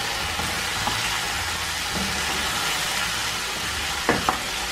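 Chicken pieces and spice paste sizzling steadily as they fry in oil in a pan, stirred with a wooden spoon. The spoon knocks against the pan a couple of times near the end.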